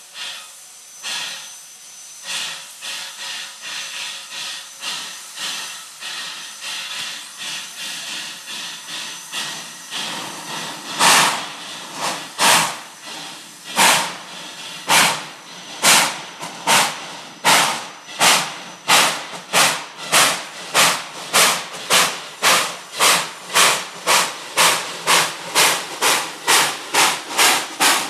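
Narrow-gauge steam locomotive exhaust chuffing as it gets under way. The beats turn much louder about eleven seconds in and then quicken steadily, to about two a second by the end, as the engine gathers speed.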